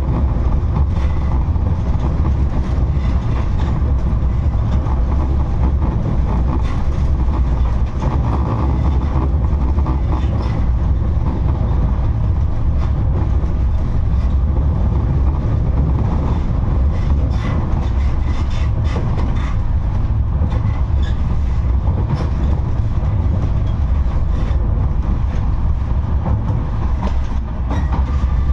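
71-628-02 tram running along the track: a steady low rumble of the motors and wheels, with scattered clicks and knocks from the rails.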